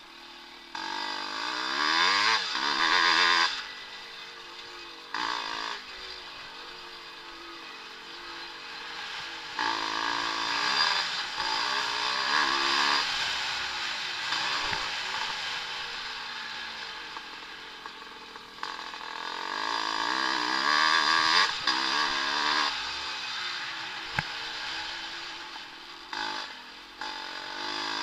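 Vintage motocross motorcycles racing on the track, engines revving up and falling off again and again as the riders work the throttle. Bikes come close and loud three times, with quieter stretches between.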